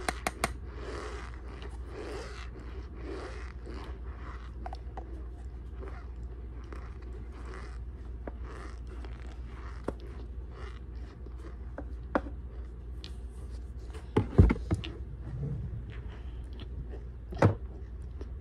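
Cornstarch being chewed close to the microphone: crunchy bites about once a second for the first few seconds, then slower and irregular. A few sharp knocks cut through, the loudest about fourteen seconds in and another near the end.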